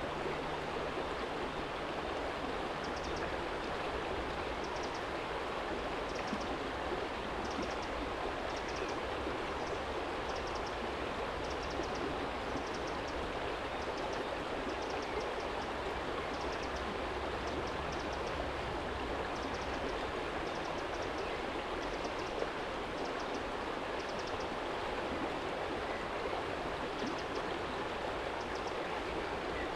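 Small stream flowing over a stony bed: a steady rush of water with no pauses. A low rumble lies underneath, typical of distant city traffic, and short high-pitched chirps recur every second or two.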